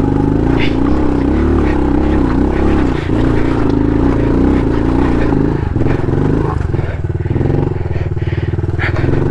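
Honda CRF110 pit bike's small air-cooled single-cylinder four-stroke engine running under load, revs rising and falling. About halfway through it settles to lower, steadier revs with a quick even putter.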